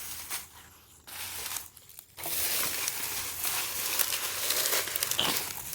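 Dry corn refuse crinkling and rustling as it is gathered and piled onto a campfire, in a short burst, a second short burst, then a longer stretch.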